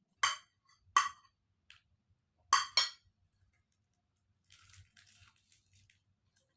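Eating utensils clinking against a dish, four sharp clinks in the first three seconds, followed by fainter rustling.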